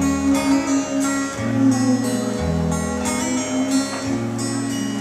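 Acoustic guitar playing the opening chords of a song live, the low notes changing about every second and a half.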